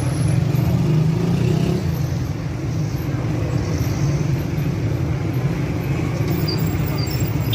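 Steady low rumble of a road vehicle in motion, even and unbroken.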